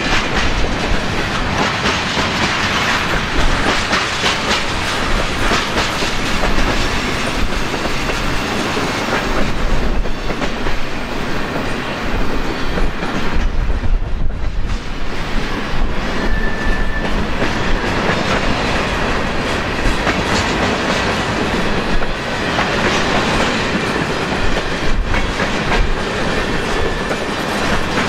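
Freight cars of a long, slow-moving mixed freight train rolling past, steel wheels clicking and clacking over the rails with a steady rumble. Wind buffets the microphone.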